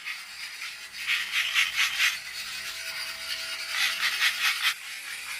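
Rhythmic scraping strokes of a hand tool working a rough surface, in two quick runs, one about a second in and one near the end.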